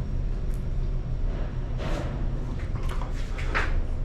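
Steady low rumble of background noise, with a few brief noisy rustles about halfway through and again toward the end.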